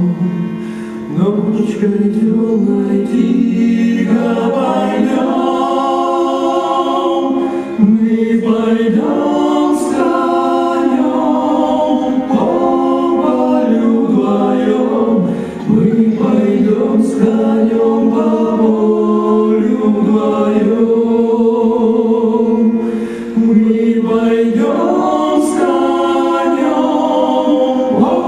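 Cossack folk ensemble singing in several-part harmony, apparently unaccompanied, in long held phrases with short breaks between them about every seven to eight seconds.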